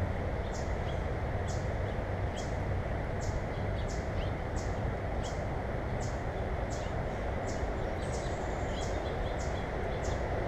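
A small bird repeating a short, high chip note about twice a second, over a steady low rumble of background noise.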